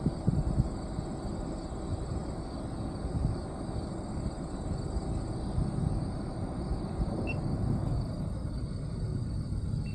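Wind buffeting the microphone of a roof-mounted 360° camera, with a gusty low rumble of vehicle and road noise and a faint steady high whine.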